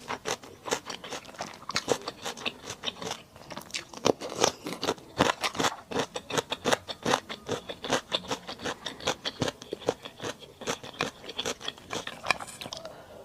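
Close-miked chewing of crunchy mala duck food: a dense, rapid run of crunches and bites that thins out near the end.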